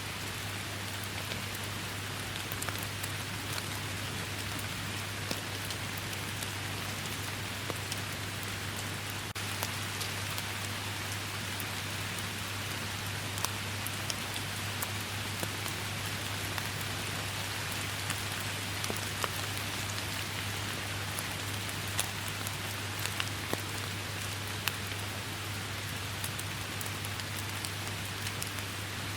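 Steady rainfall, an even hiss with many individual drops ticking sharply here and there, over a constant low hum.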